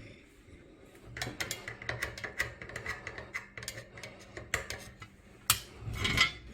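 Irregular clicking and light rattling of the partly dismantled table fan's parts being handled, with a few louder knocks near the end.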